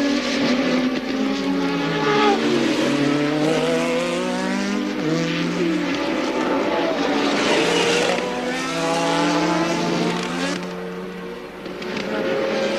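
Several 1983 Formula One cars racing past. Their engines rev up and drop back through gear changes, and each note falls in pitch as a car goes by.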